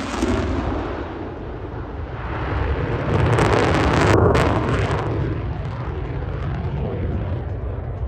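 F-35A Lightning II's jet engine rumbling as the jet flies its display, swelling to a peak a few seconds in and then slowly fading as it moves away.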